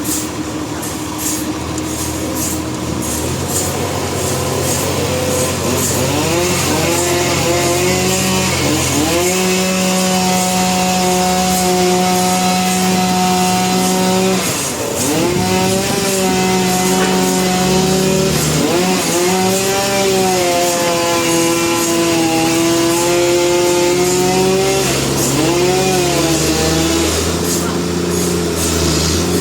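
Sawmill saw and its driving engine running steadily, the pitch sagging and climbing back again several times.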